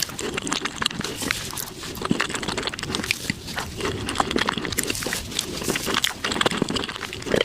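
Close-miked chewing and wet mouth smacks of someone eating cheesecake, played back at five times speed, so the sounds come as a dense, rapid run of clicks and squelches.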